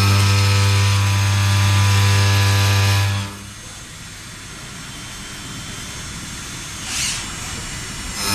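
WFL M60 mill-turn CNC machine cutting a crankshaft: a loud, steady pitched whine from the cut. It stops about three seconds in, leaving a quieter hiss with a short swell near the end, then starts again at the very end.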